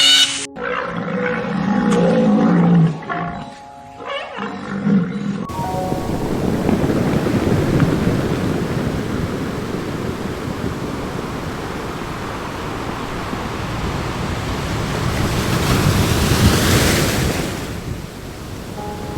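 Low growls from a big cat over soft music, then a steady rush of noise that swells and fades about three-quarters of the way through.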